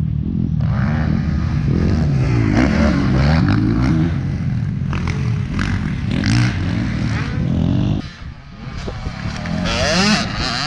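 Dirt bike engine revving hard, its pitch rising and falling again and again. It drops off sharply about eight seconds in, then climbs back up near the end.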